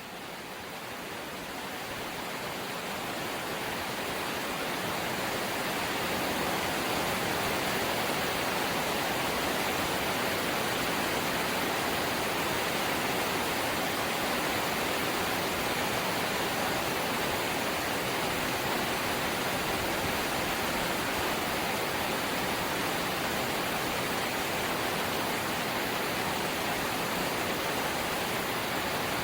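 Rain falling on a corrugated zinc sheet roof, a dense, even hiss with no separate drops standing out. It fades in over the first several seconds and then holds steady.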